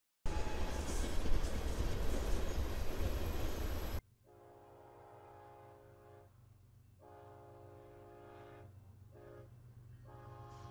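Freight cars rolling past close by, a loud steady rumble of wheels on rail that stops abruptly after about four seconds. Then a BNSF freight locomotive's horn sounds at a distance in the grade-crossing pattern: two long blasts, a short one, and a long one.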